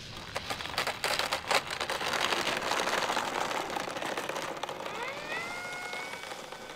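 Brushless electric motor and propeller of an E-flite Fw 190A 1.5m foam RC warbird on the ground after landing: first a rush of noise with scattered clicks, then about five seconds in the motor's whine rises in pitch and holds steady as it taxis.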